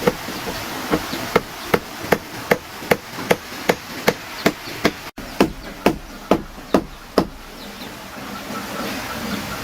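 Rapid, evenly spaced blows of a hand tool, about two and a half strikes a second. The strikes stop about seven seconds in.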